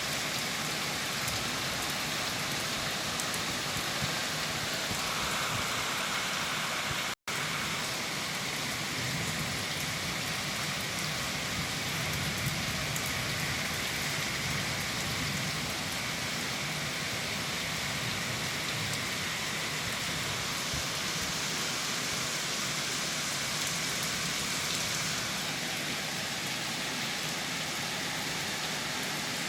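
Heavy rain falling steadily, a dense even hiss of drops on surfaces, with a split-second gap in the sound about seven seconds in.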